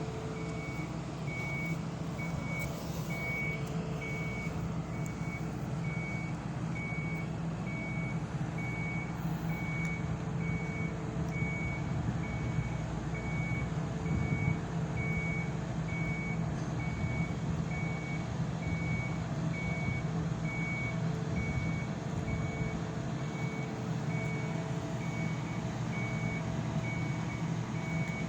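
Heavy vehicle's diesel engine running steadily while its reversing alarm beeps over and over in a regular rhythm.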